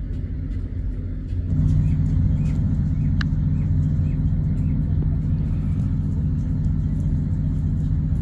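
A steady low rumble that grows louder about a second and a half in, with a few faint, short high chirps over it.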